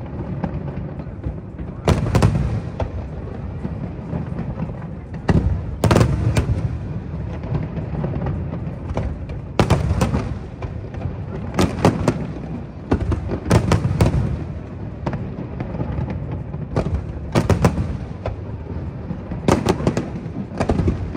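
Aerial fireworks shells bursting in a string of loud bangs every second or two, often in quick pairs, with a continuous low rumble in between.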